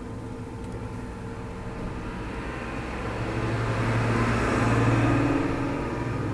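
Bobcat E80 excavator's diesel engine running. It swells in loudness about three seconds in, peaks near five seconds, then eases.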